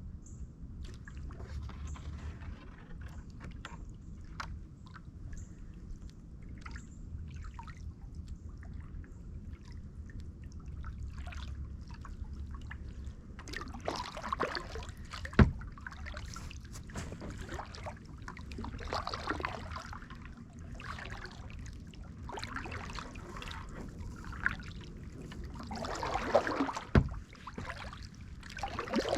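Kayak paddling: the paddle dips and drips water in small splashes, and the sloshing grows louder about halfway through. Two sharp knocks stand out, one in the middle and one near the end, over a steady low rumble.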